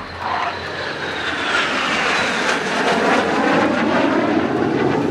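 Hawk jet trainers of the Surya Kiran team flying past. The jet noise swells toward the middle, and its whine falls steadily in pitch as the aircraft pass.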